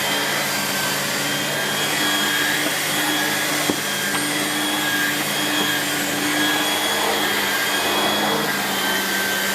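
Miele S8730 (C3 Complete) cylinder vacuum cleaner running steadily as it vacuums: a constant motor hum with a faint high whine.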